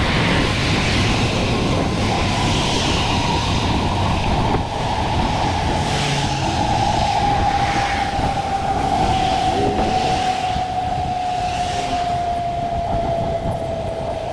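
Wind rumbling on the microphone of a moving bicycle, with a steady whine that slowly drops in pitch through the second half.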